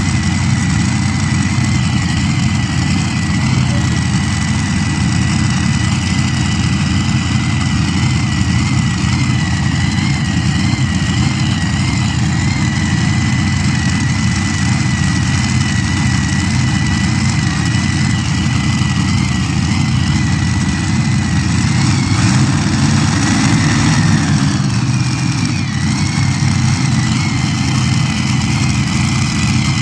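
Heavy pulling-vehicle engine running steadily and loud, with a high whine that wavers in pitch throughout and shifts briefly about three-quarters of the way through.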